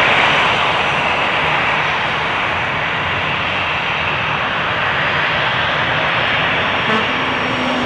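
Jet noise from an Airbus A350-1000's Rolls-Royce Trent XWB turbofans: a loud, steady rushing roar that eases slightly after the first second.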